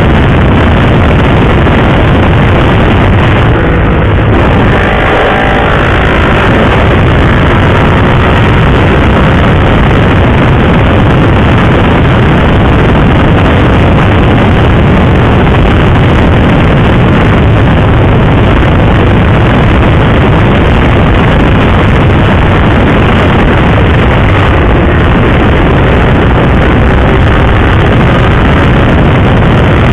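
Sport motorcycle riding at speed, its engine running under a steady loud rush of wind on the microphone, with a brief change in engine pitch about five seconds in.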